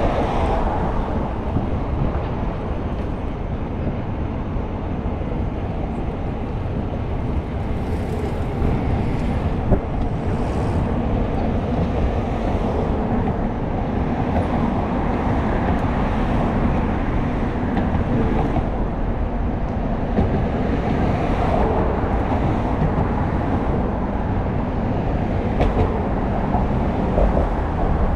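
Steady city traffic and road noise heard from a moving bicycle, with wind rushing on the microphone, and a few faint clicks scattered through.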